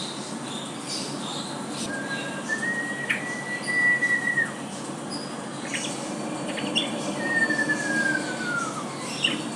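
White-rumped shama singing: a long clear whistle held steady from about two seconds in, then a long slowly falling whistle near the end, with short high chirps in between.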